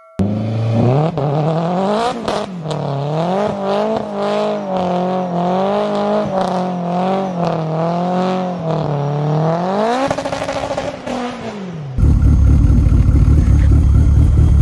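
Mazda RX-7's bridgeported rotary engine revving hard, its pitch swinging up and down over and over, held high briefly and then dropping away. About twelve seconds in, after a cut, the same engine idles loudly close to the exhaust with a rapid, choppy pulse typical of a bridgeported rotary.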